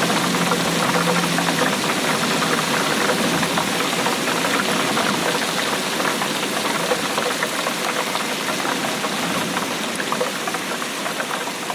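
Steady rainfall: a dense, even patter of drops.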